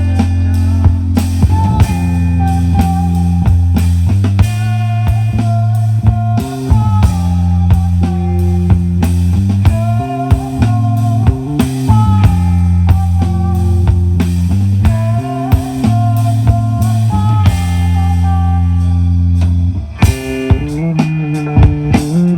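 Live rock band playing an instrumental passage: bass guitar holding long low notes that change every couple of seconds, drum kit keeping a steady beat, and guitar playing a wavering melodic line over them.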